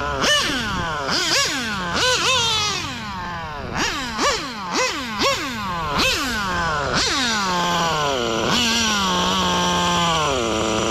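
Serpent Nova Mega .21 nitro RC engine being blipped: quick throttle revs, about two a second, each rising sharply and falling back. About seven seconds in it holds a high rev that sags and levels off, then drops lower near the end.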